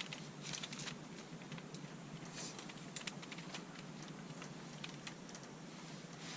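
Faint, scattered light clicks and short rustles of plastic light-up candy cane decorations being handled and fitted together, over a steady low hum.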